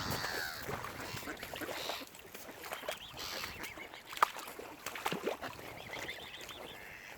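Waterfowl calling in a series of short, scattered calls, with a sharp click about four seconds in.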